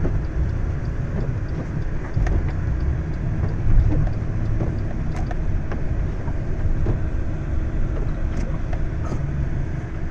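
A motor vehicle's engine running with a steady low rumble and a faint constant hum, with a few faint clicks.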